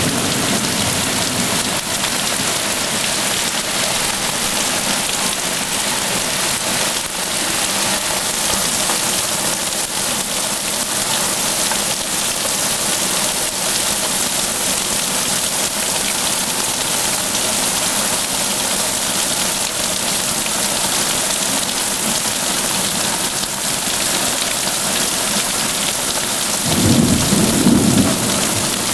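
Steady pouring rain of a thunderstorm, with a rumble of thunder near the end.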